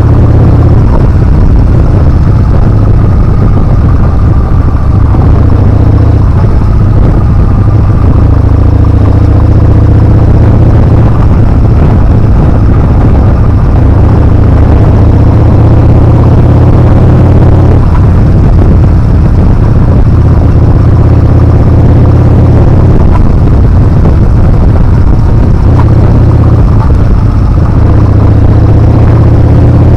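Yamaha Bolt R-Spec's air-cooled V-twin running under way, its pitch rising and falling repeatedly with throttle and gear changes, under a loud, steady rumble of wind on the microphone.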